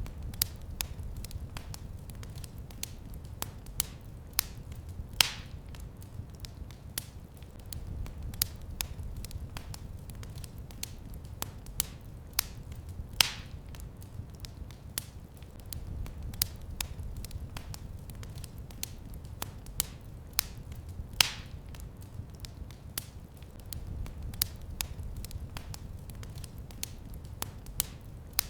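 Wood fire crackling in a fireplace: a constant patter of small sharp crackles over a low rumble, with a louder pop three times, about eight seconds apart.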